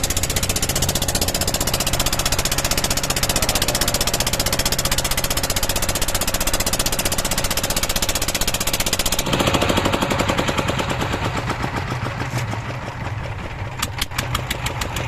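A boat's engine runs hard with a rapid knocking beat, then eases off about nine seconds in to a slower, lighter knock.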